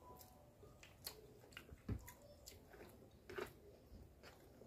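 Faint close-up chewing of soft cooked chicken and vegetables, with a scatter of small wet mouth clicks and smacks.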